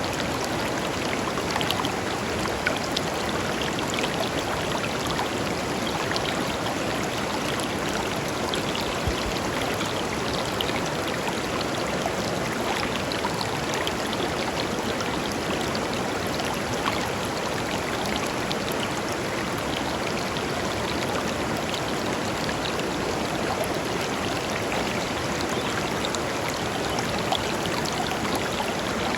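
A shallow river flowing and babbling over stones, a steady rush of water with small splashes.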